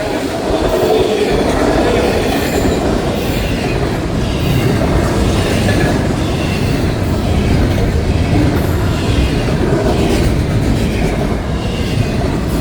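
Florida East Coast Railway freight train rolling past, its cars and wheels on the rail making a steady, loud rush of noise that holds at one level throughout.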